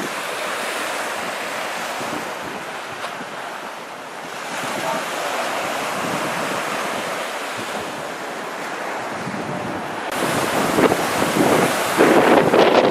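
Hurricane wind and surf: a steady roar of wind and breaking waves, with gusts buffeting the microphone that grow louder about ten seconds in.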